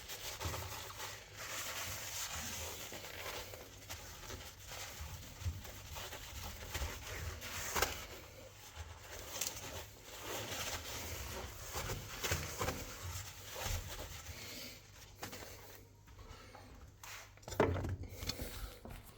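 A rag rubbing across fireplace door glass, wiping off the cleaning foam and loosened soot, with a few light knocks.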